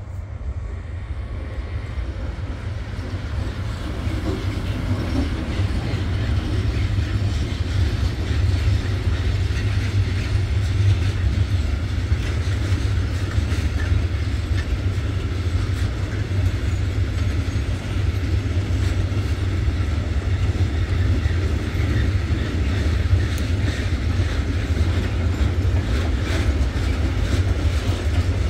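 Freight train hauled by a DB Cargo class 189 electric locomotive rolling past, its wagons' wheels clattering over a steady deep rumble that builds over the first few seconds and then holds.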